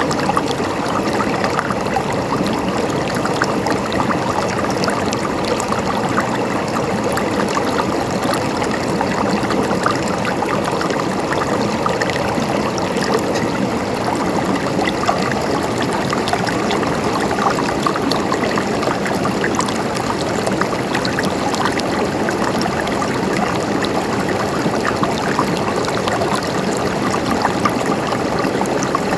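Stream water flowing and gurgling steadily over stones, a constant babble with small splashes.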